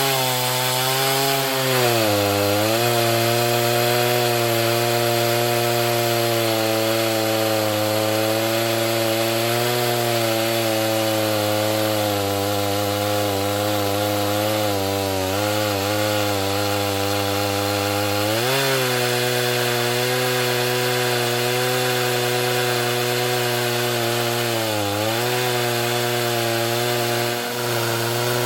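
Two-stroke chainsaw at full throttle, ripping a poplar log lengthwise in an Alaskan chainsaw mill. The engine pitch sags briefly a few times as the cut loads it, then picks back up.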